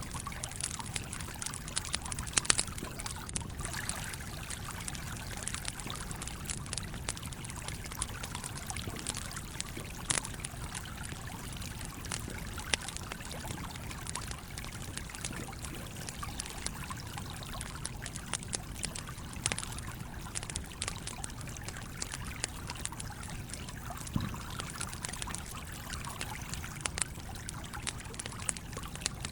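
Campfire crackling, with sharp irregular pops scattered throughout and the strongest about two and a half seconds in, over the steady flow of a stream.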